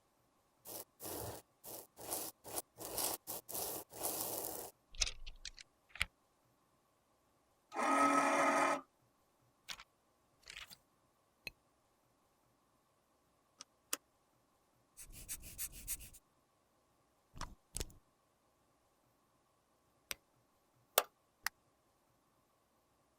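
Close-up handling of makeup products: a run of short scraping strokes in the first few seconds, a brief buzz about eight seconds in, then another scrape and scattered sharp clicks and taps.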